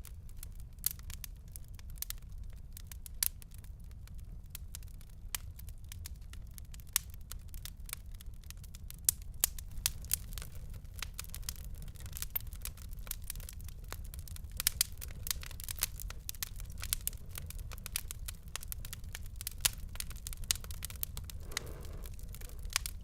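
Fireplace fire crackling: irregular sharp pops and snaps, a few much louder than the rest, over a low steady rumble of burning.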